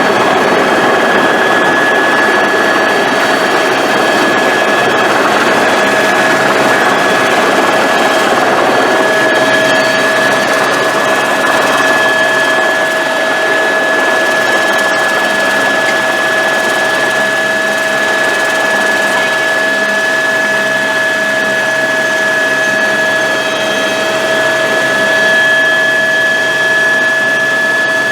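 Helicopter in flight, running steadily: a constant loud noise with two steady high whining tones over it.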